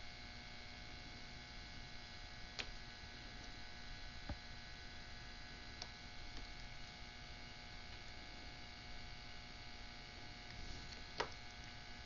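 Faint steady electrical hum, with a few small clicks, the sharpest near the end, as plastic pry tools work at the edge of an iPod Touch's glass.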